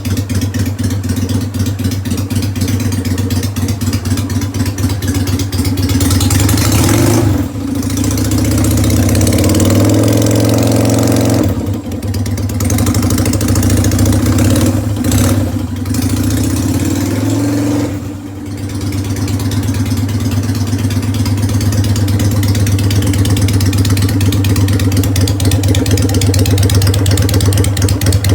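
Yamaha Drag Star 250's air-cooled V-twin running through straight-pipe slash-cut mufflers: a pulsing idle, then held at higher revs several times in the middle stretch with brief drops of the throttle between, and back to a pulsing idle for the last ten seconds or so.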